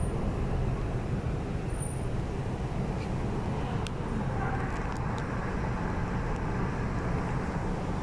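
Interior running noise of an MTR East Rail line R-Train electric multiple unit under way: a steady rumble of wheels on rail and traction equipment, with a few faint ticks near the middle.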